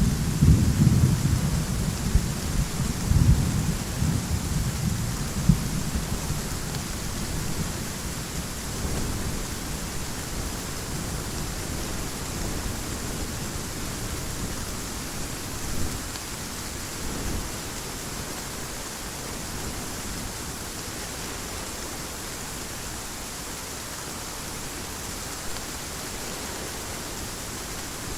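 Thunderstorm: a roll of thunder rumbling and fading away over the first several seconds, over steady heavy rain.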